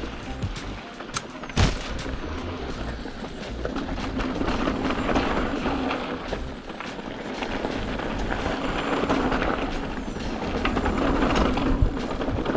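Mountain bike riding along a dirt trail: steady tyre and wind rumble with a sharp knock about a second and a half in and another near the end.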